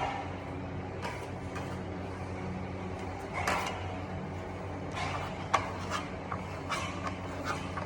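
Scattered light clicks and short scrapes of hand plastering tools working Venetian plaster on a wall, with the sharpest click about five and a half seconds in, over a steady low hum.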